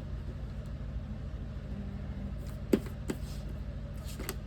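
Photo trimmer cutting a photo: two sharp clicks a little past halfway and two more near the end, over a steady low hum.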